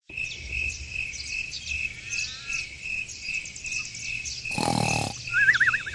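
Countryside ambience: insects chirping in a steady pulse about twice a second, with many small bird chirps over it. A short, loud animal call comes about four and a half seconds in, and a warbling bird call starts near the end.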